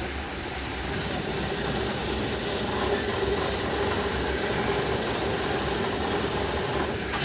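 A railway train running with a steady low rumble and a faint steady hum.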